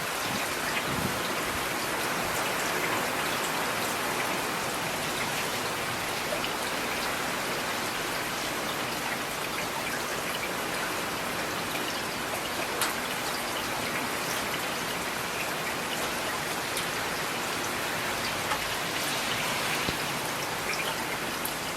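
Steady rain falling, with individual raindrops pattering on a hard surface as scattered small ticks over an even hiss.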